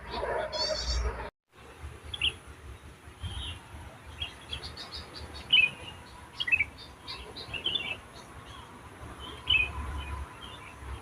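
Wild birds calling in short, scattered chirps and twittering phrases, several birds overlapping, after a brief sound at the start that cuts off abruptly about a second in.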